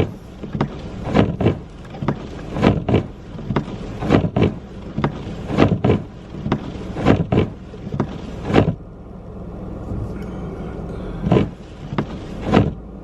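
Car running with a steady low hum, over which comes a string of short, sharp, irregular sounds about every half second. They stop about nine seconds in and return a few times near the end.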